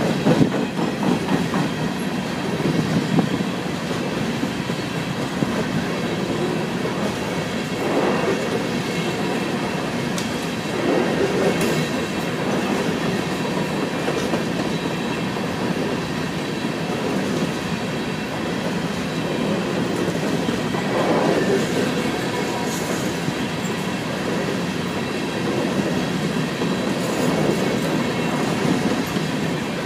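Empty coal hopper cars of a Norfolk Southern train rolling past on steel wheels: a steady rumble and rattle of wheels on rail that swells and eases every few seconds.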